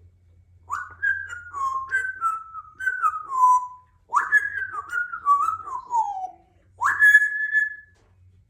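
Congo African grey parrot whistling a tune in three phrases of stepped notes. The first two phrases fall in pitch; the last is one held high note.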